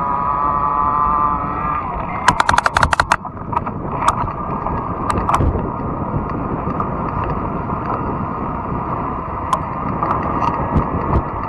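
Riding noise from a fat-tire e-bike: steady wind and tyre rumble. A steady whine stops about two seconds in, followed by a quick run of about ten sharp clicks and a few scattered ticks after.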